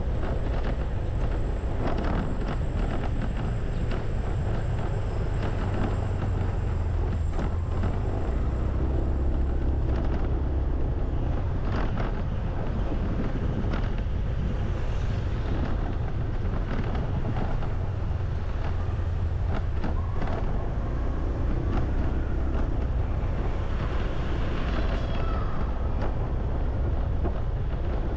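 Wind buffeting a microphone outdoors: a steady, heavy low rumble with irregular crackles.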